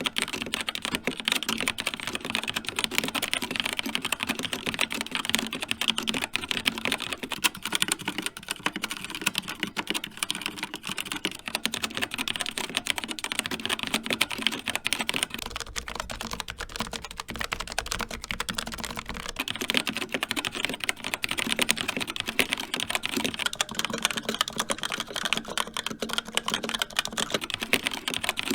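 Fast typing on a run of mechanical keyboards, the sound changing about every eight seconds. First an Xtrfy K4, then a Rapture Delta, both with Kailh Red linear switches. Then a Logitech MX Mechanical Mini with Kailh Brown tactile switches, and near the end a Razer Pro Type with Razer Orange switches.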